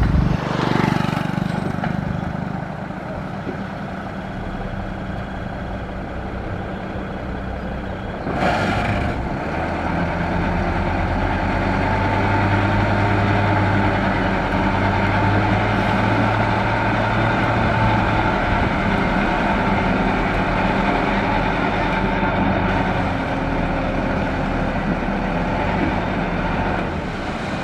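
Heavy diesel engine of construction machinery running steadily, with two short bursts of hiss, one just after the start and one about eight seconds in; after the second, the engine's low hum grows deeper and louder.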